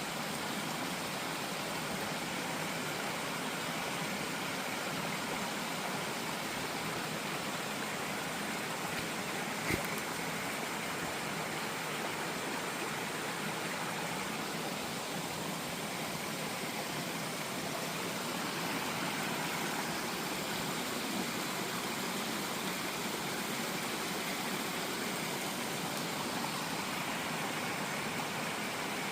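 Steady rushing of flowing water, as from a mountain stream, even throughout, with one brief click a little under ten seconds in.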